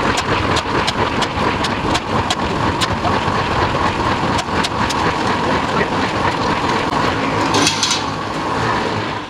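Electric mixer churning cement-sand mortar: a steady motor hum with the mix clattering, switched off right at the end.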